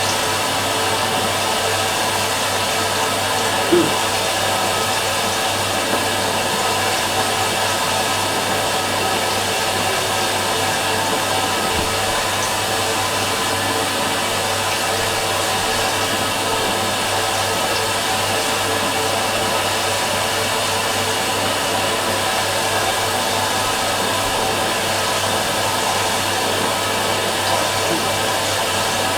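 Fisher & Paykel MW512 washing machine running with a steady whirring drone, with one short louder blip about four seconds in.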